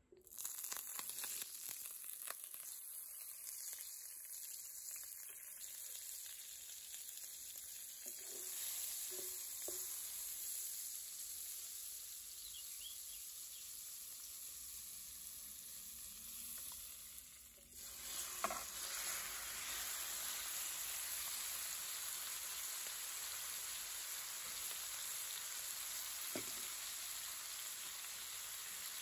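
Butter and olive oil sizzling in a hot enamelled pan, starting suddenly as the butter hits the oil. About 18 seconds in there is a knock, and raw chicken breast pieces frying make the sizzle louder and steady.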